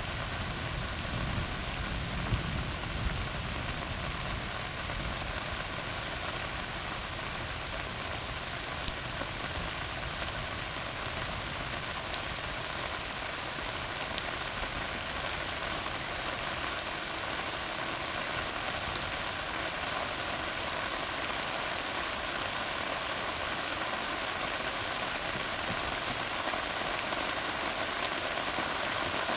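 Steady rain falling on a tar road: an even hiss with scattered sharp drop ticks. A low rumble in the first few seconds fades away.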